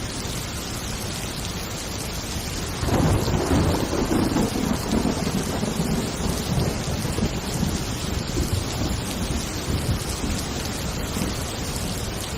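Steady heavy rain, with a long rolling peal of thunder that breaks in about three seconds in and slowly rumbles away.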